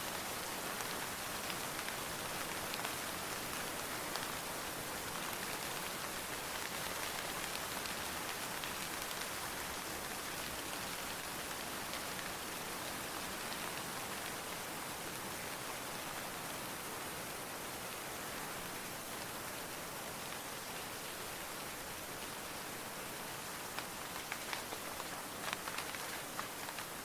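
Steady rain falling in an even hiss, with a few sharper close drops tapping near the end.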